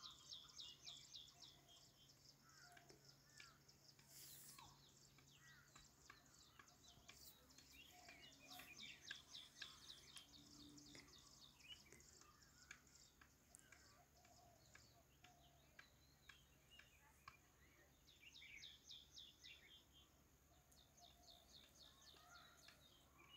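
Near silence with faint birds chirping in the background: repeated rapid trills of short, high notes, over a faint steady low hum.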